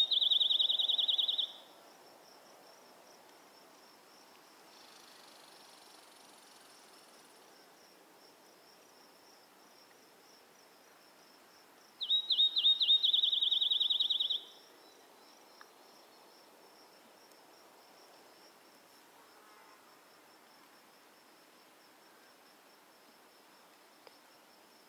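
A bird's trilled song: a few spaced high notes that quicken into a rapid trill lasting about two seconds. It comes at the start and again about twelve seconds in, over a faint, steady, high insect chirring.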